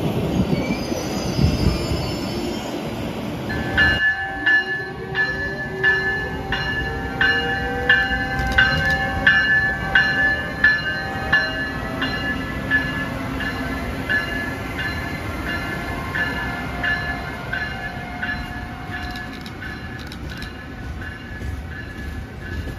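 Train on the tracks: a low rumble, then a steady high-pitched squeal that cuts in abruptly about four seconds in. Sharp clicks repeat about every half second under the squeal, along with whines that glide in pitch, all gradually fading toward the end.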